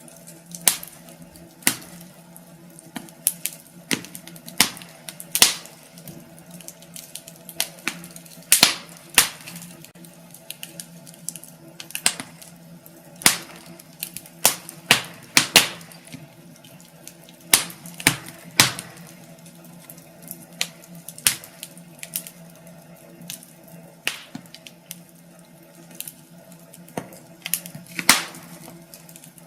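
Wood fire in a fireplace crackling, with irregular sharp pops and snaps of varying loudness.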